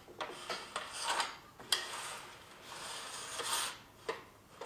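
A metal connector bar being slid along the channel of a track-saw guide rail to join two rails: scraping metal on metal, with a few sharp clicks and one longer rub about three seconds in.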